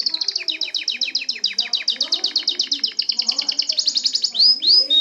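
Canary singing: a long, fast trill of rapidly repeated high notes, about ten a second, then near the end two loud upward-sweeping whistles and a short held note.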